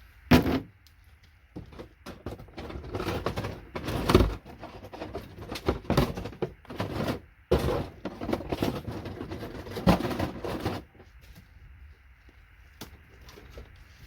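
Irregular knocks and clattering of hand tools working on a circuit board, with several sharper impacts as components are broken off. The knocking stops about eleven seconds in.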